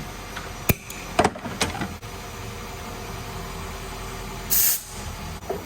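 Nissan Altima 2.5-liter four-cylinder engine idling steadily. Several sharp clicks come in the first two seconds, and a brief loud hiss about four and a half seconds in.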